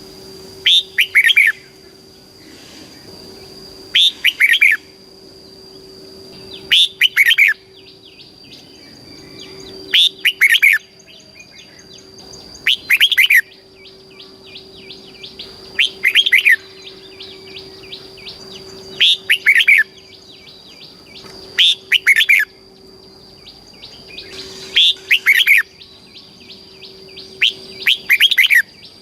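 Red-whiskered bulbul singing: short, loud, whistled phrases of a few swooping notes, repeated about every three seconds, about ten times, with softer chirps between them.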